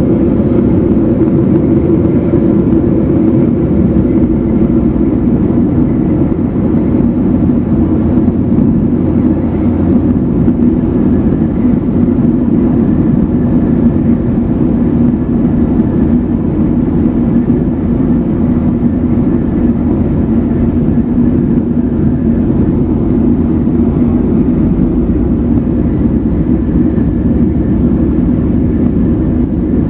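Evektor SportStar light aircraft's piston engine and propeller running steadily in flight, heard from inside the cockpit as a loud, even drone. Its note settles a little lower about ten seconds in.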